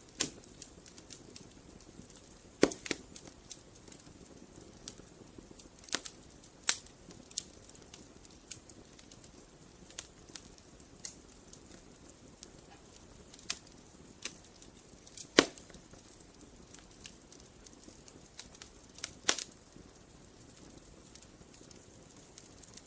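Campfire of burning wood crackling: a soft steady hiss broken by irregular sharp pops and snaps, the loudest about 3, 6, 7, 15 and 19 seconds in.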